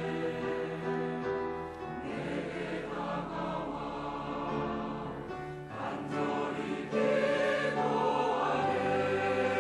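Church choir singing a sacred anthem in sustained chords, swelling louder about seven seconds in.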